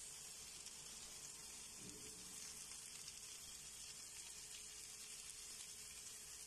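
Chicken breast fillets and sliced onions frying in a nonstick pan, giving a faint, steady sizzle.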